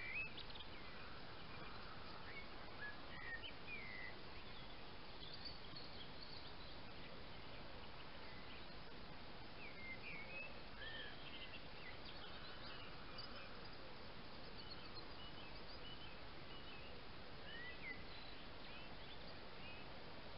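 Faint, scattered bird chirps and short calls over a steady background hiss.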